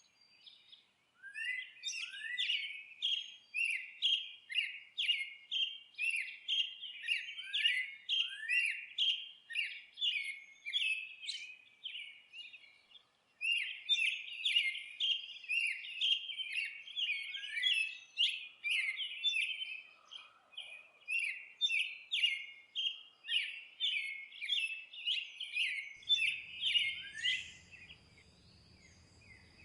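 Bird song: fast, evenly repeated chirps, about three a second, in two long runs with a short break about halfway through.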